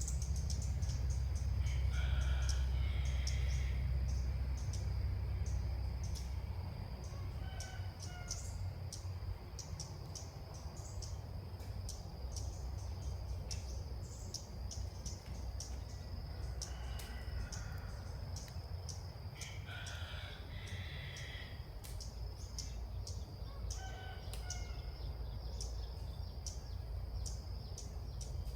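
A rooster crowing twice, each crow about a second and a half long, with shorter two-note bird calls in between. Under them runs a steady high insect drone with faint ticking.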